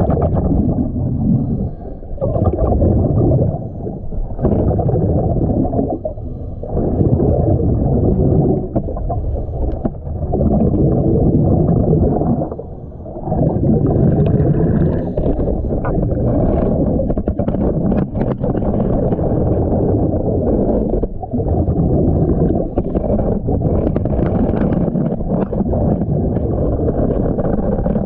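A scuba diver breathing underwater through a regulator: muffled gurgling of exhaled bubbles and the hiss of inhaled air, in surges a few seconds long with brief dips between breaths.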